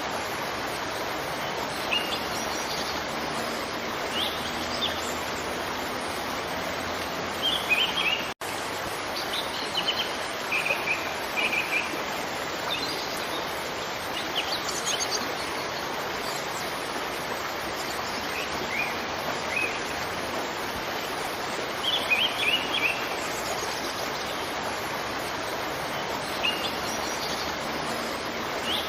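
Steady rushing of a waterfall with small birds chirping in short, scattered bursts above it. A split-second dropout cuts the sound out about eight seconds in.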